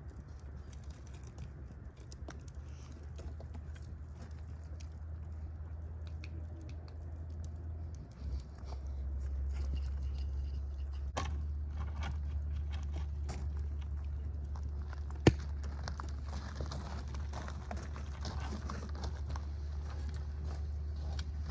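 A fire crackling with scattered pops over a steady low rumble, which grows louder about a third of the way in. One sharp, much louder pop comes about two-thirds of the way through.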